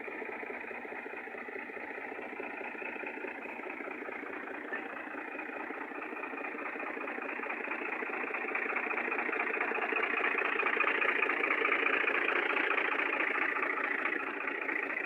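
Fiat tractor's diesel engine running steadily, growing louder about two-thirds of the way through.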